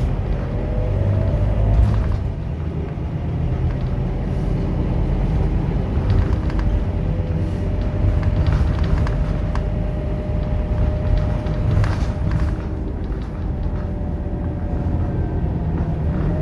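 Scania K230UB single-deck bus on the move: a low engine rumble with a steady transmission whine over it, rising briefly in pitch near the start, and a few knocks and rattles.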